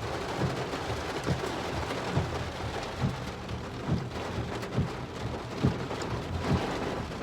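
Heavy rain pouring steadily, with a soft low thump repeating a little under once a second.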